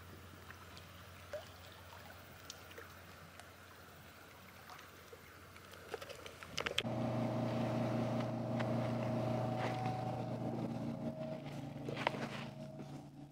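Faint outdoor background with a few small clicks, then about seven seconds in a steady motor drone with a low hum cuts in suddenly and holds a fixed pitch, easing off near the end.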